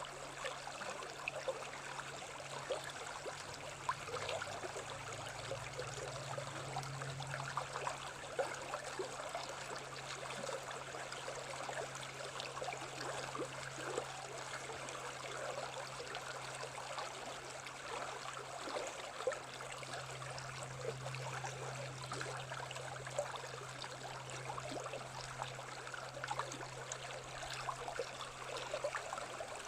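Running water of a small stream, babbling and trickling steadily with many small splashes, over a steady low hum.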